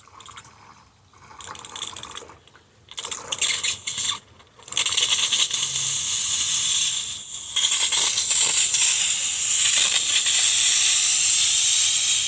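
Steam wand of a Delonghi Magnifica XS espresso machine: short bursts of hiss for the first few seconds, then a loud, steady hiss of steam from about five seconds in, with strong pressure.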